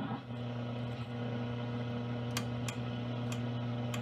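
A 1947 GE console tube radio's speaker giving a steady low hum between stations, with several sharp static crackles in the second half as the dial is tuned.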